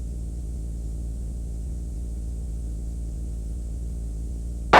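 Cessna 140's light piston engine and propeller droning steadily in climb-out, heard from inside the cabin as a muffled, even low hum.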